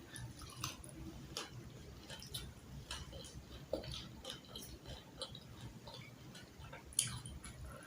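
Close-up eating sounds: chewing and mouth clicks with small irregular crunches, typical of crisp fried fish and raw vegetables being eaten. There is a sharper click about seven seconds in.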